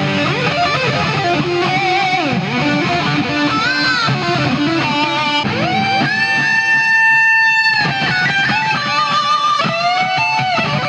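Electric guitar lead playing, loud, with fast runs and string bends. Just past the middle a note is bent up and held for nearly two seconds before cutting off.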